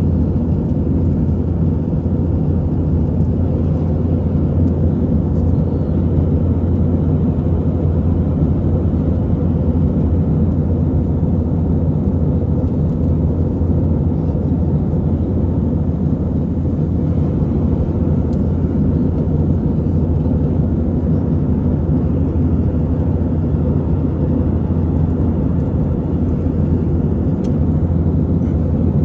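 Steady drone inside the cabin of an Airbus A320-200 in flight, heard from a seat near the wing: jet engine noise and airflow, deep and even, with no changes in pitch or level.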